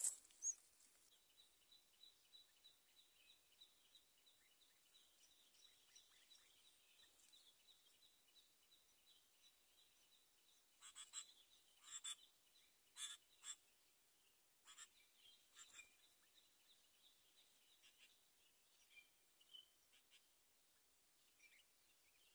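Near silence outdoors: a faint steady high-pitched tone for the first ten seconds or so, then a handful of short sharp rustles or clicks, with a few faint chirps later on.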